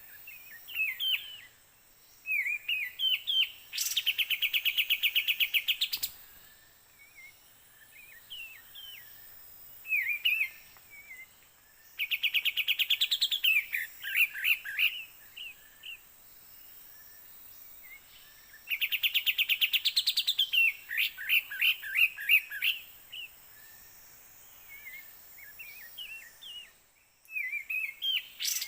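Bird song in the kapas tembak trapping forest: loud, fast, evenly pulsed trains of high chirps about two seconds long, coming three times roughly seven seconds apart, with shorter scattered chirps and trills between them.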